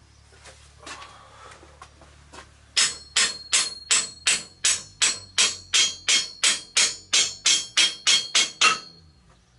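Hammer blows on steel: a steady run of about eighteen sharp, ringing strikes, about three a second, starting a few seconds in and stopping shortly before the end.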